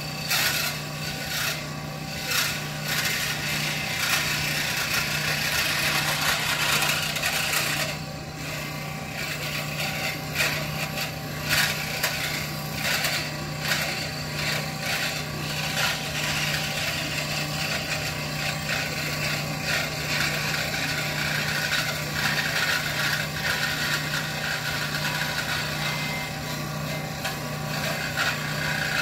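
A small power tool running steadily while it grinds and scrapes away knife-handle material, with irregular scratchy strokes over a constant motor hum.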